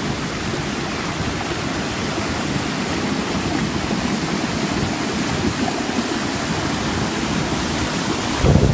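Fast-running stream water rushing steadily, with a burst of low buffeting near the end.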